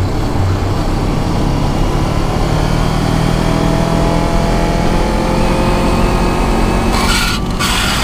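Honda CBR500R's parallel-twin engine running at highway speed under wind noise, its pitch rising slowly. Near the end a sudden harsh, noisy burst cuts in over it.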